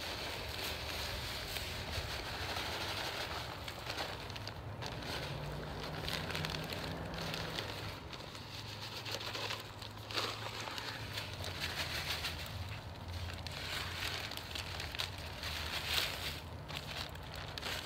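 Crackling, rustling sound of granular lime pellets being handled and poured from a bag into a broadcast spreader, over a low steady hum.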